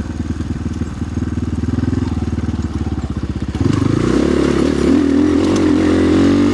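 Orion RXB250XL dirt bike's single-cylinder 250 cc engine running at low revs, then opened up about three and a half seconds in, getting louder with its pitch climbing.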